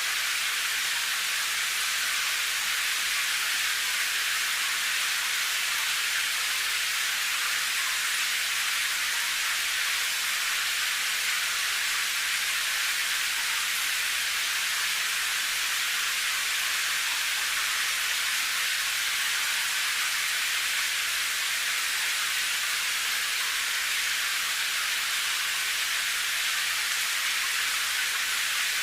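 Recorded rain falling steadily: an even, high hiss with no separate drops or thunder standing out.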